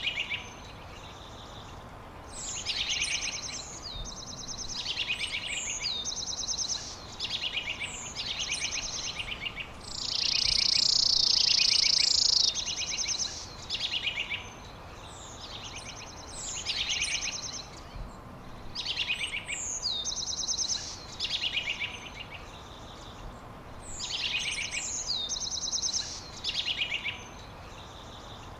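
Songbird singing short phrases again and again, every couple of seconds, each a quick falling whistle followed by rapid high trills. A louder, longer trill holds for a couple of seconds around the middle.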